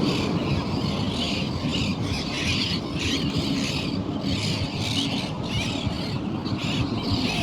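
A flock of birds chattering and squawking in quick overlapping calls, over a steady low rumble.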